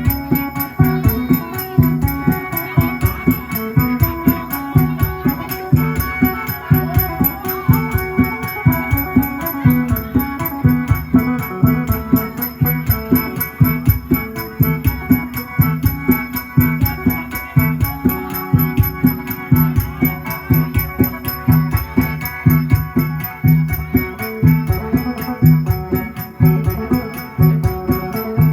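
Isan phin, a plucked lute, played fast in traditional Isan ritual music: a dense run of quick plucked notes over a repeating low drone-like pulse.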